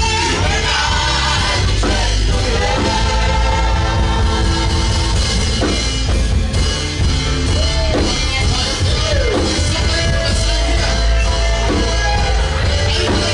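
Live worship music: a band playing with voices singing over it, loud and continuous with a heavy bass.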